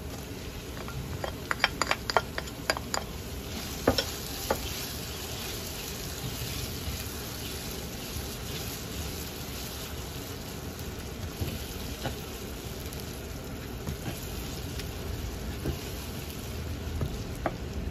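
Chopped shallots and garlic sizzling in hot oil in a frying pan while a plastic spatula stirs them. A few sharp knocks of the spatula on the plate and pan come in the first few seconds as the shallots are tipped in, then a steady sizzle.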